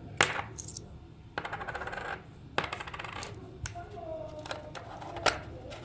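Coins dropping into an electric cat-and-mouse coin bank: a series of sharp metallic clinks, several of them trailing into a short rattle.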